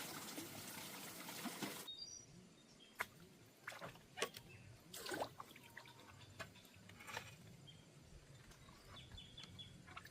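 Water trickling for about two seconds, then cutting off sharply; after that, scattered light knocks and clicks with a few faint bird chirps.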